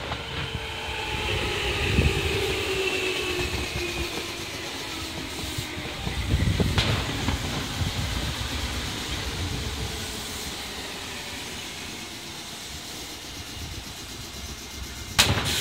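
Red Meitetsu electric commuter train pulling into a station and passing close by, its motor whine falling in pitch as it slows. A sharp firework bang near the end.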